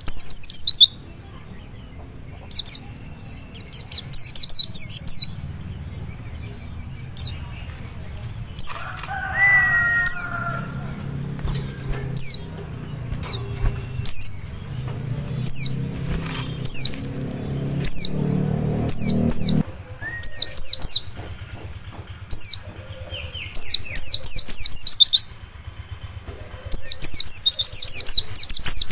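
Pleci dakun white-eye singing: rapid clusters of thin, high-pitched downward-sweeping chirps, bursting densely at the start and again near the end, over a low steady background rumble.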